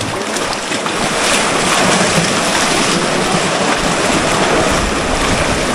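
Fast-flowing river water rushing steadily, with wind buffeting the microphone underneath.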